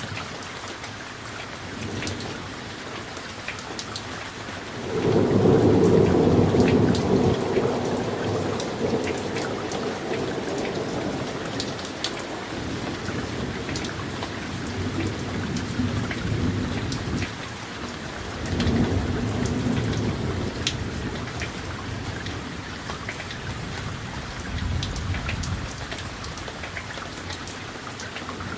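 Steady rain falling, with many small drop ticks, and rolling thunder: a loud low rumble breaks in about five seconds in and rolls on, fading, for several seconds, and a second, weaker roll comes a little past halfway.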